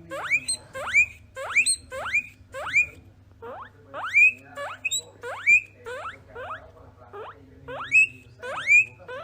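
A small animal squealing in a long run of short, sharply rising squeaks, about two a second, over a faint steady low hum.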